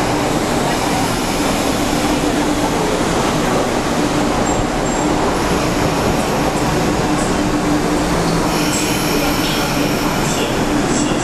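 Steady, loud train noise at a station platform, with a low, even hum throughout. A few faint, high, squeal-like sounds come near the end as a diesel-hauled train rounds the curve into the station.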